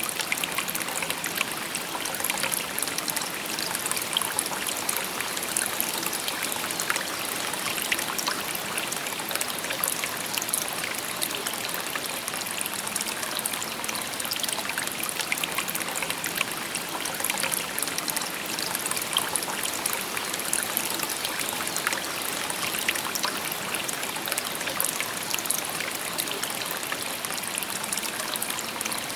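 A shallow river babbling over stones, steady and unbroken, with fine splashing and trickling detail.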